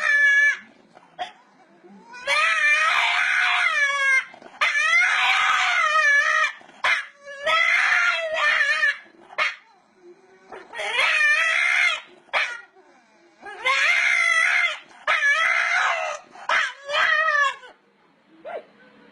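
A dog giving a series of about seven long, wavering, howl-like cries, each a second or two long with short pauses between them.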